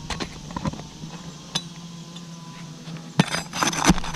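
A metal pry tool clinking and knocking under asphalt roof shingles as roofing nails are worked loose and popped out. There are a few sharp clicks early, then a cluster of louder knocks near the end.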